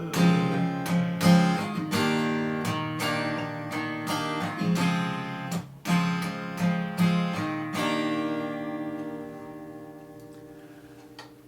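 Acoustic guitar strumming the closing chords of a slow ballad, then a final chord about eight seconds in that rings on and fades away.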